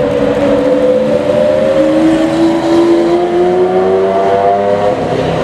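Supercar engine accelerating, its pitch climbing slowly and steadily, then easing off near the end.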